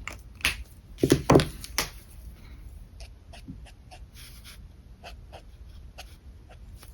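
A dog gives a few short, loud barks or whines in the first two seconds, the loudest about a second in. After that come faint, scattered clicks and scratches of alcohol markers and their caps on paper.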